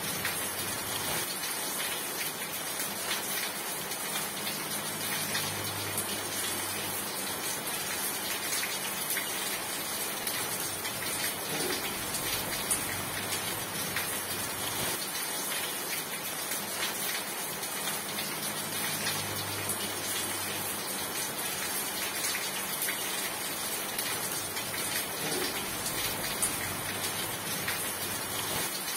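Steady rain falling, an even hiss of drops without a break. A faint low rumble comes and goes twice beneath it.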